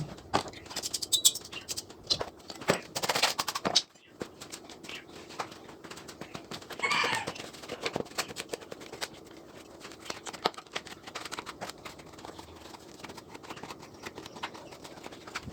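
Scattered clicks and knocks of metal parts and hand tools being handled, with two short scraping bursts in the first four seconds and a brief high chirp about seven seconds in.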